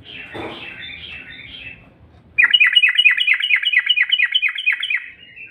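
Trucuk (yellow-vented bulbul) calling: a soft chatter first, then, about two seconds in, a loud, fast run of short down-slurred notes, about five a second, trailing off into a softer trill near the end. This is the kind of song used as a lure call to set other trucuk singing.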